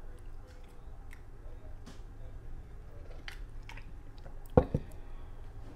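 Close-up eating sounds: soft chewing and small mouth clicks. A little over four seconds in, a drinking glass is set down on the table with a sharp double knock.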